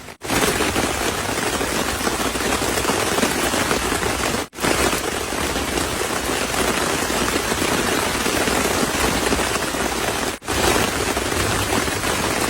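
Heavy rain falling steadily in a forest, a dense even hiss of drops. It breaks off for a moment twice, about four and ten seconds in.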